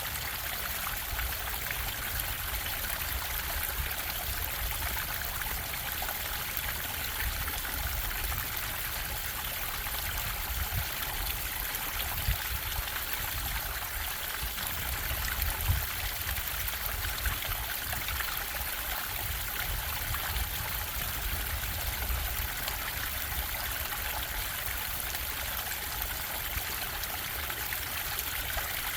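A stream running over rocks, steady rushing and trickling water, with a few slightly louder splashes partway through.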